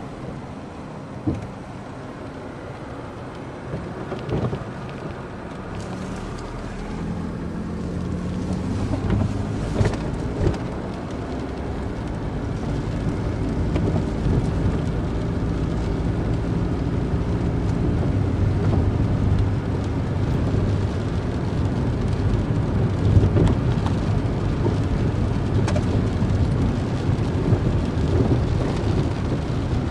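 Car driving: engine hum and rumbling road noise, growing louder about a fifth of the way in, with occasional sharp knocks.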